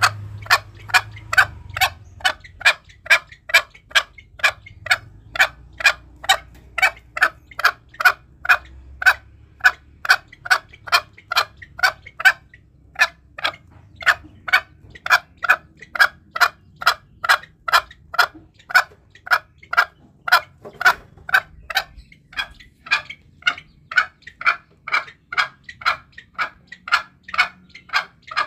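Green junglefowl calling in a long, even series of short, sharp notes, about two a second. This is a lure call used to provoke wild junglefowl into answering when hunting them.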